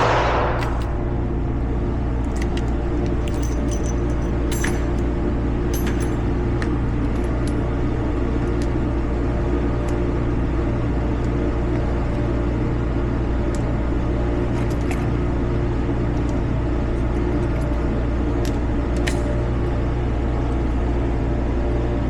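The ringing tail of a revolver shot dies away in the first second, leaving a steady low background hum and rumble. A few faint light clicks sound scattered through it.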